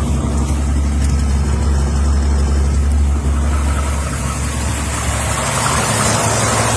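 1969 Pontiac Firebird's 350 V8 idling steadily with a deep, even low note.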